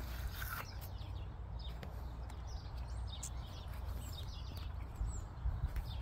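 Small birds chirping, short falling calls scattered throughout, over a steady low rumble.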